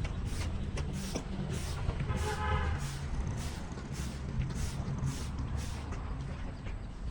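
Gusty wind buffeting the microphone with a heavy low rumble as a rainstorm moves in. Sharp taps come about twice a second, and a short pitched call sounds about two seconds in.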